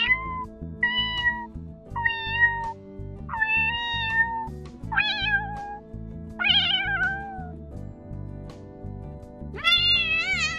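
A young kitten mewing: six short, high-pitched mews about a second apart, each dropping a little in pitch. After a pause, a longer mew begins near the end. Background music plays under it.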